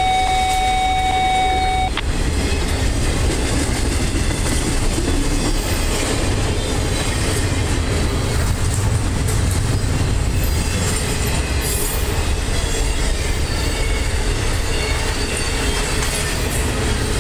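Double-stack intermodal well cars of a freight train rolling past, a steady rumble of steel wheels on the rails. A steady high tone sounds for about the first two seconds and cuts off sharply.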